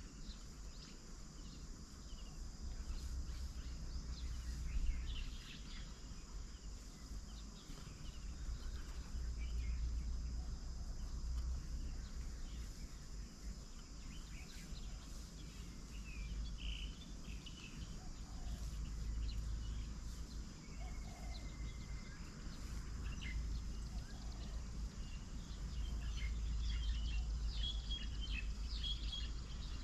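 Outdoor garden ambience: scattered small bird chirps and calls, busier near the end, over a steady high insect hum, with a low rumble that rises and falls underneath.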